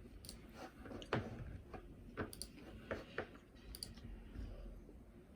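Computer keyboard being typed on: light, scattered clicks at irregular intervals, a few seconds of keystrokes.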